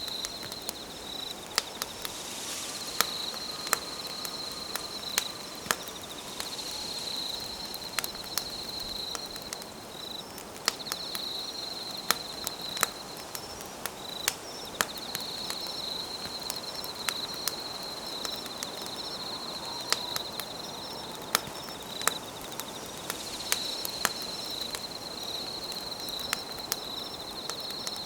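Wood campfire crackling with irregular sharp pops, over a steady high-pitched trill of night insects that breaks off briefly now and then.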